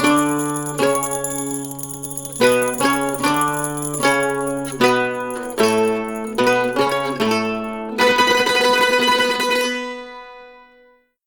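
Mandolin and octave mandolin playing a melody of plucked notes over lower bass notes, then a final chord played with rapid repeated picking about eight seconds in, which rings and fades away.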